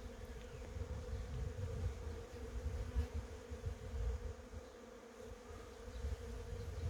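Honeybees buzzing: a steady, continuous hum, with a low, uneven rumble underneath.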